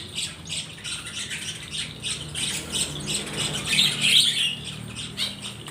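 A group of small wild-caught birds chirping and squawking together, a dense chatter of short, high calls, loudest about four seconds in.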